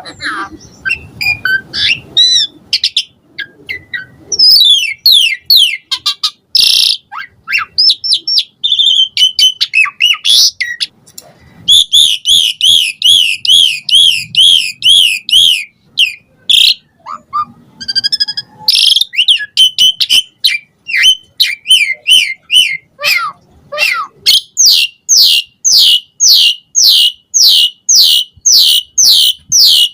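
Pied starling (jalak suren) singing loudly and continuously, a varied medley of whistles, glides and chattering phrases. About twelve seconds in it gives a fast trill of repeated notes, and near the end it settles into a rapid series of down-slurred whistles, two or more a second.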